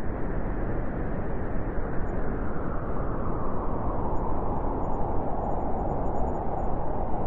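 Snowstorm wind blowing hard and steadily, a dense, even noise with no gusts or breaks.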